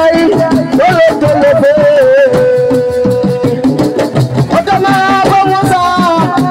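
Live assiko (siko) band music: a melody line over a fast, steady beat of drums and percussion, holding one long note in the middle.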